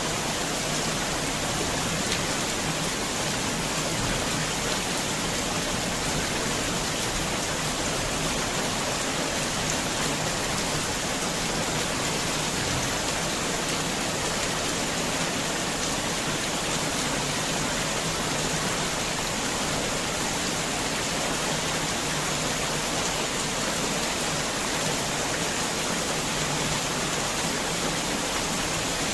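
Heavy rain falling in a steady, dense hiss with no distinct drops or thunder.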